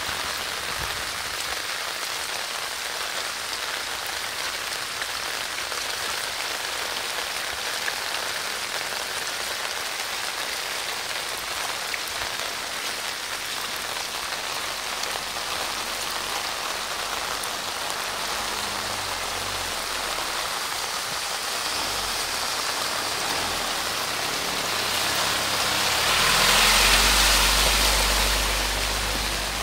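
Heavy rain falling steadily, with a louder swell of rushing noise and a low rumble near the end.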